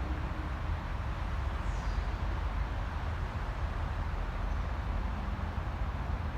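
Steady low rumble of distant city road traffic. A single faint bird chirp falls in pitch about two seconds in.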